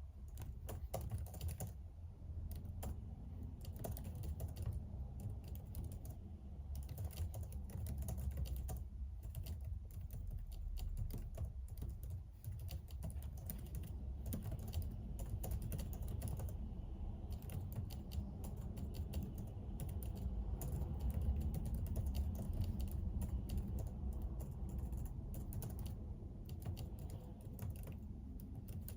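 Typing on a computer keyboard: a fast, steady stream of keystroke clicks with brief pauses now and then.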